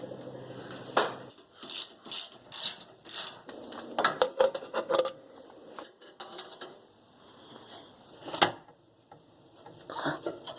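Irregular metallic clicks and knocks from tools and parts being worked on the table saw, with a run of quick clicks in the first half and a single loud knock about two-thirds of the way through.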